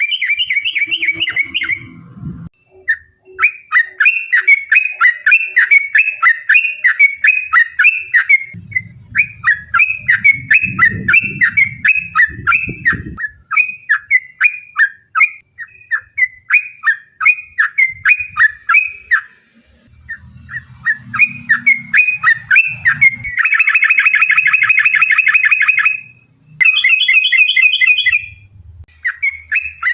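Yellow-vented bulbul (trucukan) singing long runs of quick chattering notes, with a fast continuous trill about three-quarters of the way through. A low rumble sits under parts of the song.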